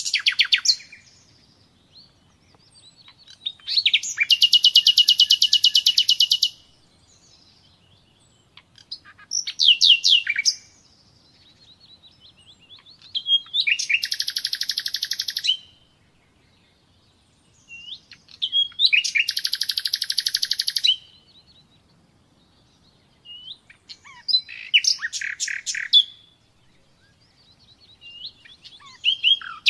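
Nightingale singing in separate phrases a few seconds apart, about six in all. Each phrase is a fast run of rapidly repeated high notes, some opening with sweeping whistles.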